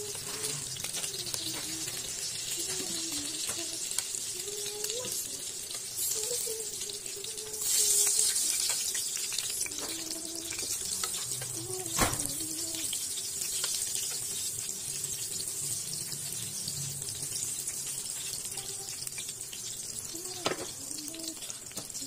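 Spring rolls sizzling as they fry in a pan of hot oil, with a louder surge of sizzling about eight seconds in. Two sharp clicks of chopsticks against the pan, one about halfway and one near the end.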